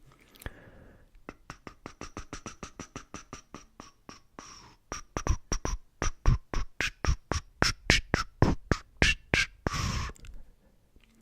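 A rapid, even run of close-up clicks, about five or six a second, growing louder about halfway through.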